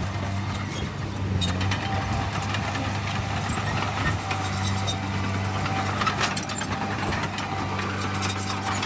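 Heavy diesel engine of earthmoving machinery running steadily, with many sharp knocks and rattles over it.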